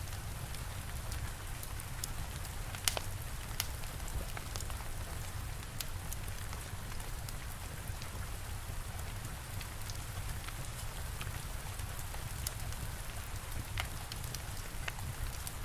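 Steady rain mixed with the scattered crackles and pops of a wood fire, one louder pop about three seconds in, over a steady low rumble.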